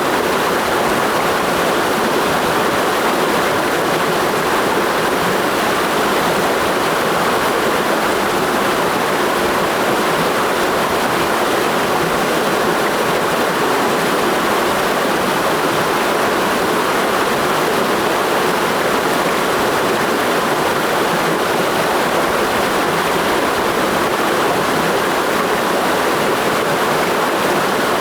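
Clear mountain stream rushing over rocks in a gorge: a steady, unbroken water noise.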